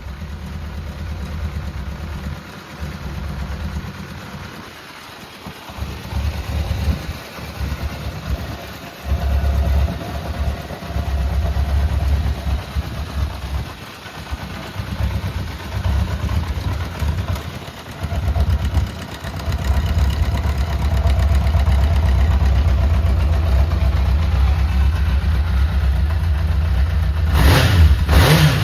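1980 Honda CB750F's air-cooled inline four-cylinder engine idling, its loudness rising and falling, then revved in quick throttle blips near the end. The seller describes it as running with no abnormal noise.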